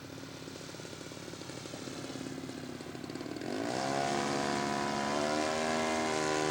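Radio-controlled scale model airplane engine running, then throttling up about three and a half seconds in: the pitch rises quickly and holds high and louder.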